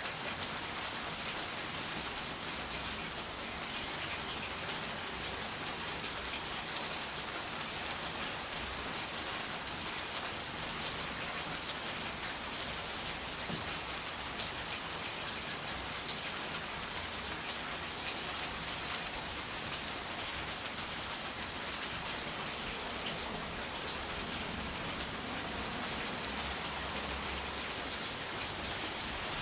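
Steady rain falling, with scattered sharp drop ticks and one louder tick about half a second in.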